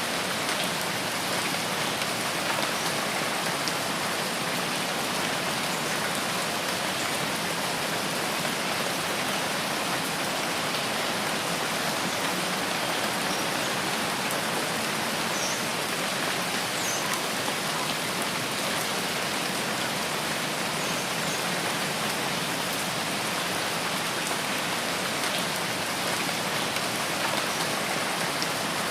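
Steady rain falling in a forest, an even hiss without a break, with a few faint high chirps about halfway through.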